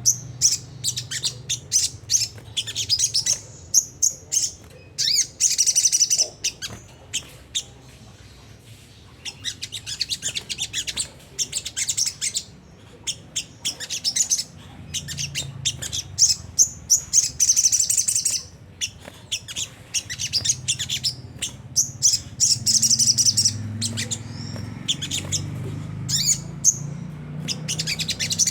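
Little spiderhunter (sogon) giving fast, high, rough chattering calls in repeated bursts, the 'ngriwik kasar' call used as a lure. A faint low hum runs underneath.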